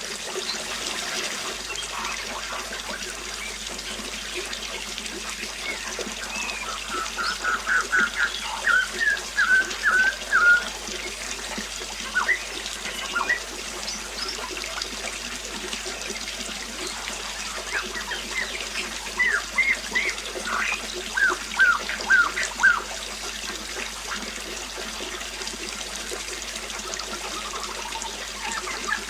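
Water trickling steadily, with a bird singing two runs of short, quickly repeated notes, one about a quarter of the way in and one just past the middle.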